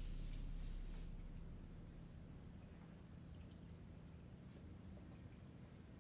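Steady high-pitched chirring of a cricket chorus in a night ambience, with soft music fading out in the first second or so.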